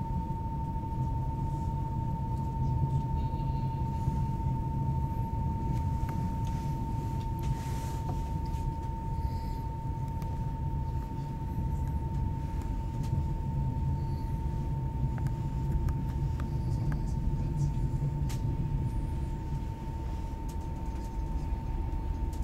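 Passenger train running steadily, heard from inside the carriage: a constant low rumble with a faint click now and then, and a steady high thin tone throughout.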